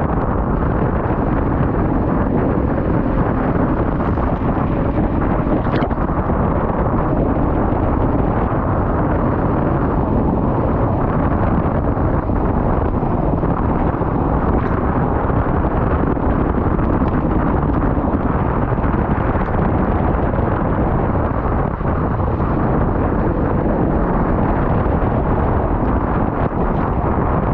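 Loud, steady wind buffeting the microphone with a low rumble underneath, unbroken and without any distinct events.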